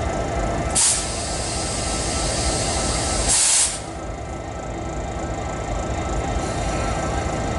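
Two short bursts of compressed air hissing from a stopped train, one about a second in and a longer, louder one at about three and a half seconds, over a steady low rumble.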